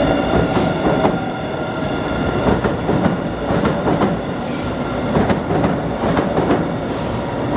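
Blue Line subway train running along the track. Its wheels click over the rail joints, and a steady pitched hum fades out in the first second or so.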